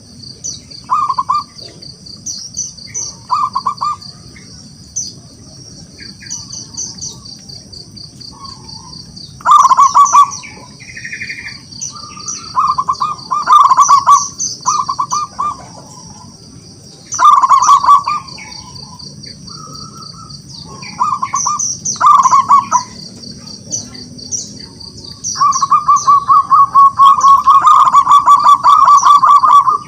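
Zebra dove (perkutut) cooing in short bursts of quick repeated notes, ending in a long unbroken run of coos near the end. A steady high-pitched chirping goes on underneath throughout.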